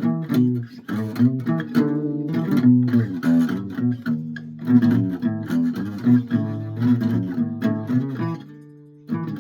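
Guitar played in a quick run of picked notes, mostly low on the neck. About eight and a half seconds in, one note is left to ring and die away before the playing starts again.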